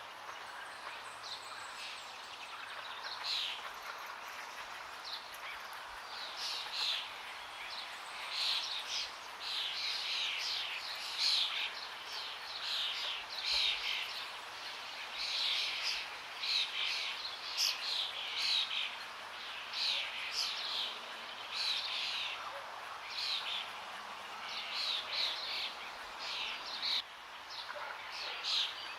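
Forest songbirds chirping in short, high, repeated calls, about one a second, over a steady hiss of running water.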